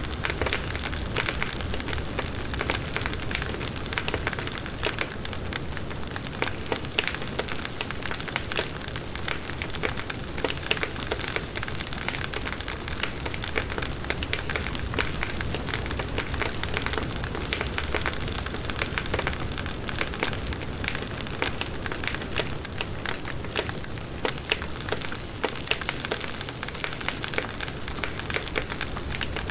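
Firewood burning in a campfire, crackling steadily with many small sharp pops.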